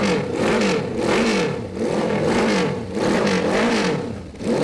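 Small minibike engine revving up and down over and over, its pitch rising and falling in quick waves, with louder surges about every second and a half.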